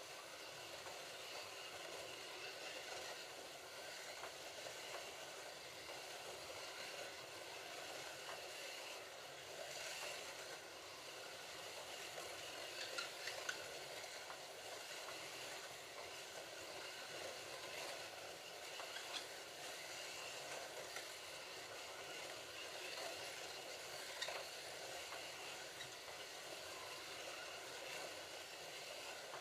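Slot.it slot cars running laps on a plastic slot track: a steady whir of their small electric motors and pickup braids, with a few faint clicks.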